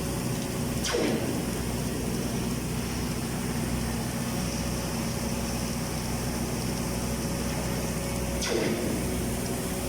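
Steady hum of running machinery with several low tones, broken by two short falling swishes, about a second in and again near the end.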